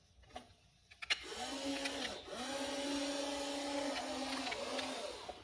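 Small electric gear motors of a WLtoys RC excavator whining as they drive the machine, starting with a click about a second in, pausing briefly, then running again steadily until shortly before the end.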